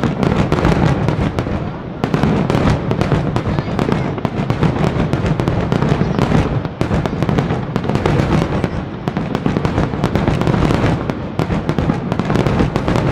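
Dense, rapid crackling and popping, many sharp cracks a second over a low rumble. It keeps up without a break and falls away suddenly at the very end.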